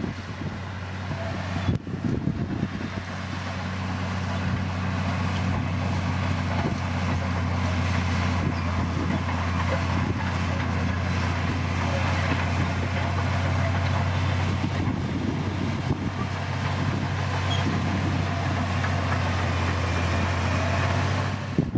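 Crawler bulldozer's diesel engine running steadily with a deep, even drone. It grows louder over the first few seconds, then holds.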